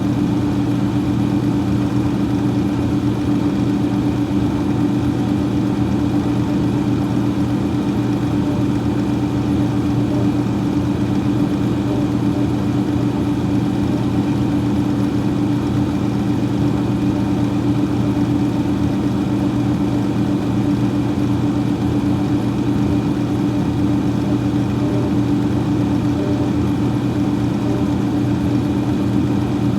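Freezer fan running: a steady hum with a low drone and an even whoosh of air.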